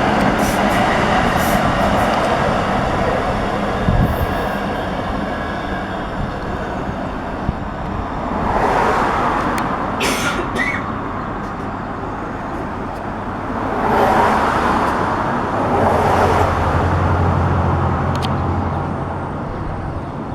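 Tram running, heard from inside: a steady rumble and rattle of wheels on rails that swells louder twice, with a single thump about four seconds in.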